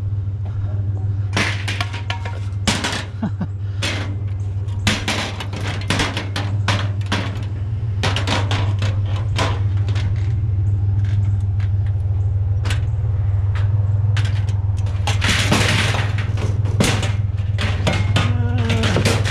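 A mangled metal ironing board clanking and rattling as it is handled as scrap, with many sharp knocks and a longer scraping clatter past the middle. A truck engine idles steadily underneath.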